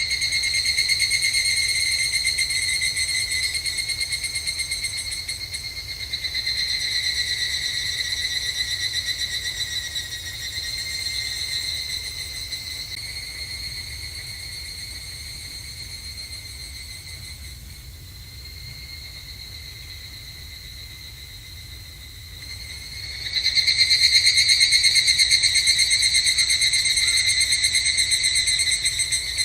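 Higurashi evening cicadas (Tanna japonensis) calling in overlapping phrases of a rapid pulsing trill, each phrase loud at first and fading over several seconds. The chorus drops quieter through the middle, and a loud new phrase starts about 23 seconds in.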